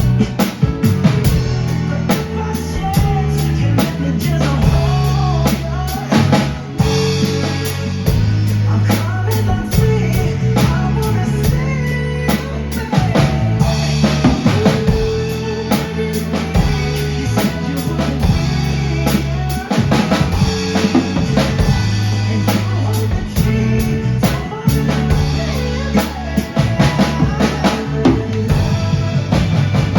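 Drum kit played along to a recorded pop backing track, with steady kick drum, snare and rimshot strokes over bass and melody.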